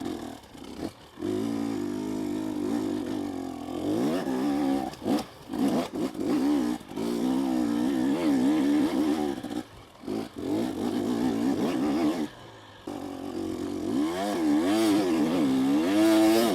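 KTM 250 SX single-cylinder two-stroke dirt bike engine revving up and down under load on a steep trail climb. There are several short drops where the throttle is shut, then it picks up again.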